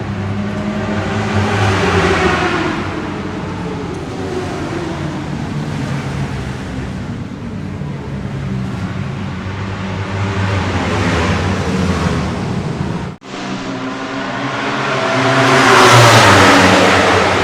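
Two-stroke racing motorcycle engine running and revving, its pitch rising and falling. After a cut about thirteen seconds in, another engine grows louder to a peak near the end and begins to fade.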